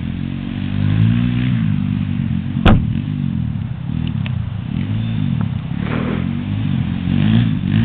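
Small off-road vehicle engine revving up and down over and over, its pitch rising and falling as it rides. There is one sharp knock about a third of the way in.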